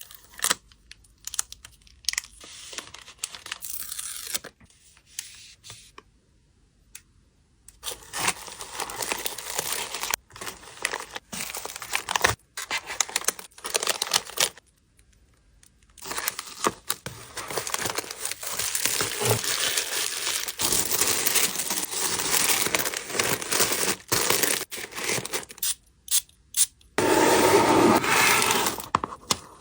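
Packing materials handled by hand: crinkling plastic and paper, with small taps and tearing, in irregular bursts separated by short pauses. The loudest rustling comes near the end.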